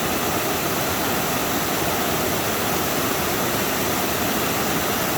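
Waterfall: falling water rushing with a steady, even roar that does not change.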